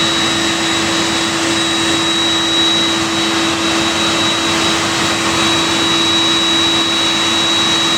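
A Boeing 747's jet turbines running steadily: a loud, even rush with a constant high whine over it that does not change in pitch.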